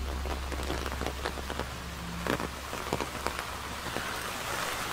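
Heavy, continuous rain falling, a steady hiss with many sharp individual drops striking close by. A low rumble underneath fades out about three and a half seconds in.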